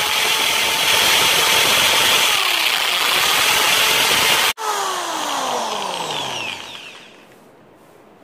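Electric drill boring into a dried guava branch at full speed. About halfway through the trigger is released and the motor's whine falls away as it spins down.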